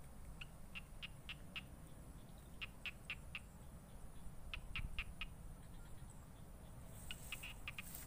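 A bird calling in short runs of four or five quick chirps, about three a second, over a steady low rumble.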